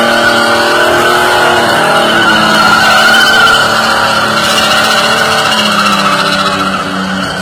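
Chevrolet Opala straight-six engine revved hard and held at high revs, loud and steady, easing off a little near the end.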